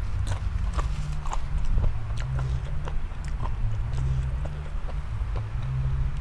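Close-miked chewing of crisp raw vegetables and spicy papaya salad: an irregular run of sharp, wet crunches, several a second.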